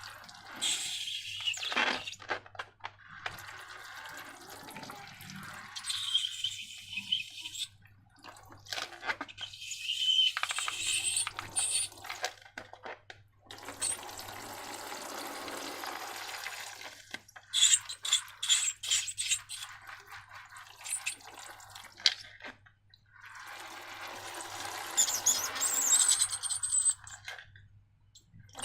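Wet liquid-slime sounds: pouring, sloshing and squishing in several stretches of a few seconds each, with short pauses and sharp clicks between them. A faint steady low hum runs underneath.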